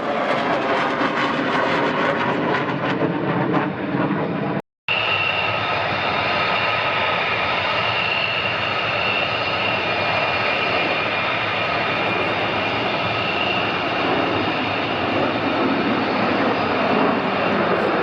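Fighter jet engine noise, loud throughout: in the first few seconds the pitch falls as a jet passes, the sound cuts out for a moment about five seconds in, and then a steady jet rumble with a high whine carries on.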